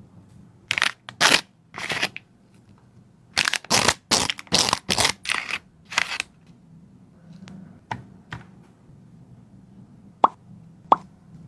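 A dog eating: a few separate crunching bites, then a quick run of about eight bites and mouthfuls, then a few faint clicks and smacks near the end.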